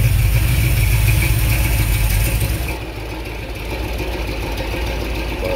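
Small-block Chevy 355 V8 with a mild Comp Cams hydraulic flat-tappet cam, running on an engine stand through headers and Flowmasters mufflers, idling steadily. About three seconds in the sound drops noticeably quieter, losing its deep low rumble.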